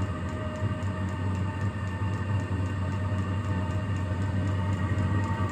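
Chinese diesel air heater running during its first start-up: its blower whirs steadily with a low hum and a whine, while the fuel dosing pump ticks regularly and faintly.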